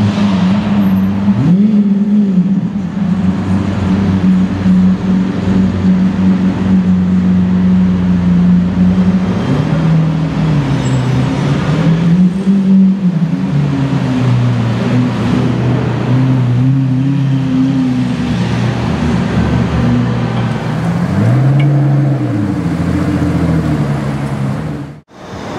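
Lamborghini Aventador's V12 engine running at low speed as the car rolls through a parking garage, its note rising and falling in a few short revs. Near the end the sound cuts off suddenly.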